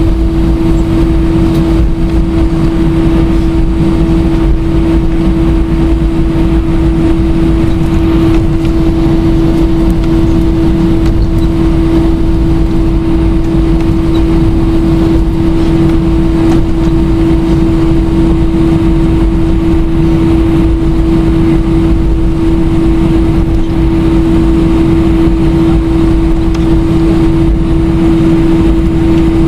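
Airbus A320 jet engines running steadily: a loud, even rumble with one strong droning hum and fainter higher hums above it, unchanging throughout.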